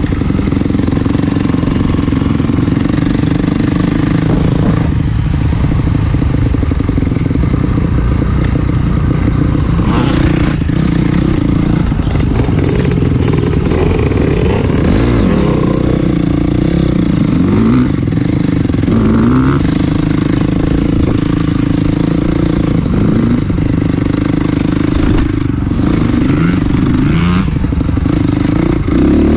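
Dirt bike engine running loudly as the bike is ridden, its pitch rising and falling again and again as the throttle is opened and closed, with a few knocks from the bike over rough ground.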